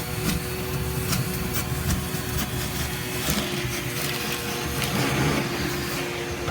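Vacuum cleaner running with a steady motor whine, sucking dirt and debris out from under and behind a truck's seat, with scattered clicks and crackles throughout.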